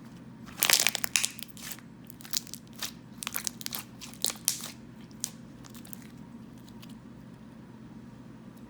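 Thick clear slime being squeezed and played with by hand, giving a run of sharp crackling and popping sounds that die away after about five seconds.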